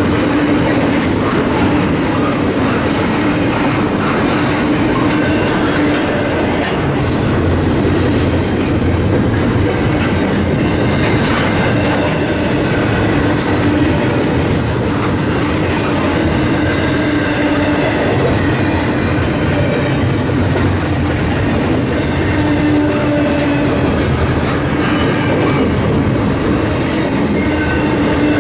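Double-stack intermodal freight train of TTX well cars rolling past close by: a steady, loud rumble and clatter of steel wheels on the rails, with scattered clicks and a steady tone running through it.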